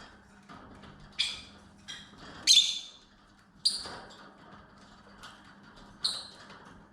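Lovebirds giving four sharp, high-pitched chirps a second or more apart, each cutting in suddenly and fading quickly, with faint small clicks between them.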